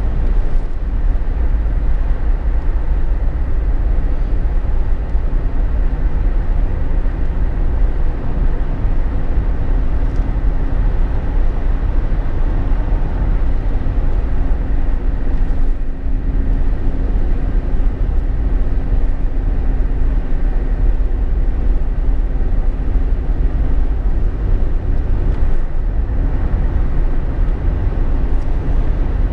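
Jeep Wrangler JK driving at road speed, heard inside the cabin: a steady low rumble of engine, tyres and wind noise. A faint steady hum rides on it through the middle.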